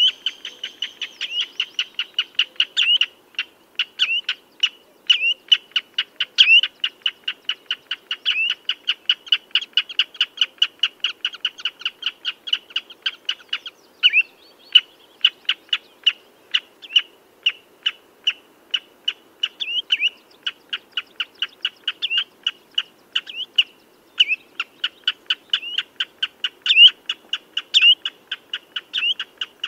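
Common redshank calling: a rapid, steady run of short piping notes, about three or four a second, some slurring downward, broken by a few brief pauses.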